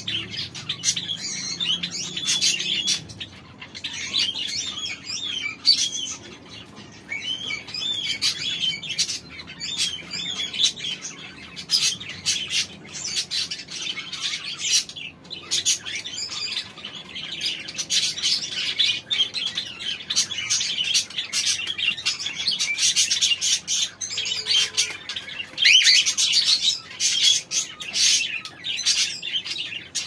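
Birds chirping and twittering without a break, a dense run of many short high chirps that grows louder about 18 seconds in and again about 26 seconds in.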